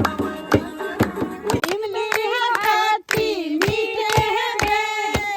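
People singing a song together, voices holding long notes, with hand clapping keeping time about twice a second. The sound breaks off for a moment about three seconds in.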